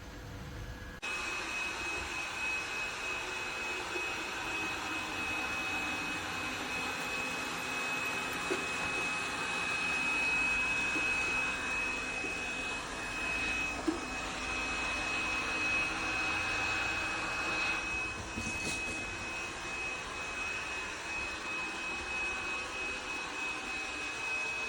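Robot vacuum cleaner running: a steady rushing suction noise with a high, even whine that switches on about a second in, and a couple of faint ticks partway through.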